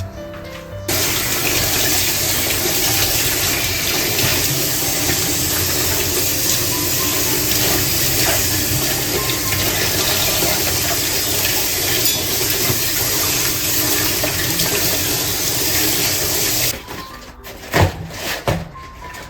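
Water running in a steady rush, starting and stopping abruptly, followed by a few sharp knocks near the end.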